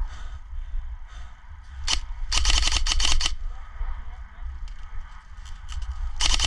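Airsoft guns firing in rapid bursts of sharp clicking shots: a single shot about two seconds in, a short fast burst soon after, and a longer run of rapid fire starting near the end, over a steady low rumble.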